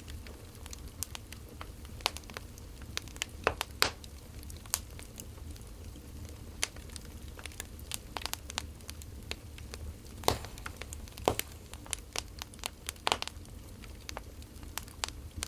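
Wood fire crackling: burning firewood gives off irregular snaps and pops, a few of them louder, over a low steady hum.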